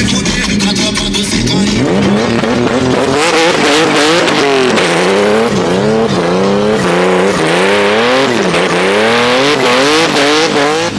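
Turbocharged Infiniti G37 drift car's engine revving hard, its pitch swinging up and down again and again from about two seconds in as the car is driven sideways, with tyre squeal.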